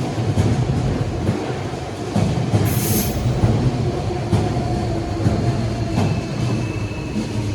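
DSB Litra SA S-train electric multiple unit moving along the platform: a steady low rumble of wheels on rail with irregular clicks over joints, and a brief high wheel squeal about three seconds in.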